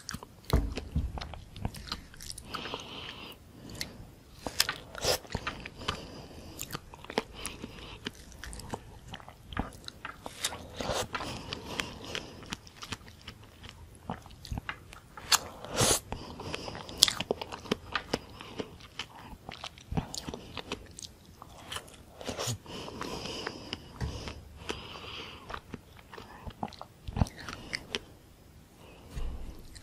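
Close-miked wet chewing and mouth sounds of someone eating soft red dragon fruit topped with whipped cream, with sharp bite and lip clicks scattered irregularly throughout.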